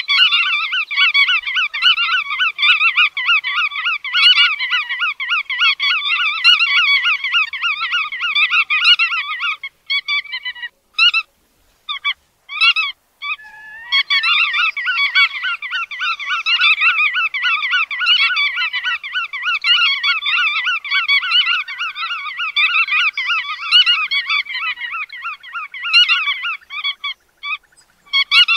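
Bar-tailed godwit calls: a rapid, continuous run of repeated notes. It breaks into a few scattered single calls for several seconds from about ten seconds in, then resumes.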